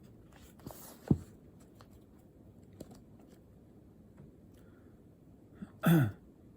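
Faint handling noises at a desk in a quiet room, with a sharp knock about a second in and a short louder sound near the end that drops in pitch.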